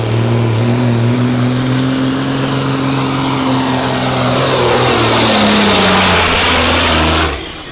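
Diesel engine of a pulling semi truck running hard at full throttle against the weight sled. Its pitch sags about five seconds in as the engine bogs under the load, and the sound drops away sharply near the end as the throttle is let off.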